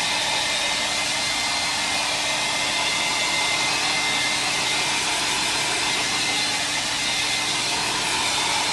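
Handheld hairdryer blowing steadily, drying spray paint on an art-journal page.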